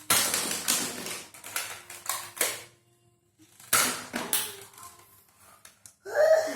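Nerf Elite foam-dart blaster being worked: a quick run of sharp plastic clacks and pops, in two clusters about a second apart.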